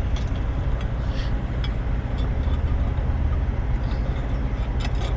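Heavy truck's engine idling with a steady low hum, with a few faint clicks of metal hardware being handled.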